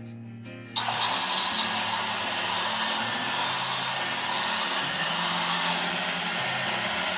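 A small motor starts abruptly about a second in and runs steadily with a loud whir.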